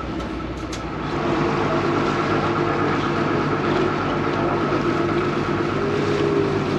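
Vaporetto water bus's diesel engine running steadily under way, with the churn of water around the hull. It grows louder and fuller about a second in.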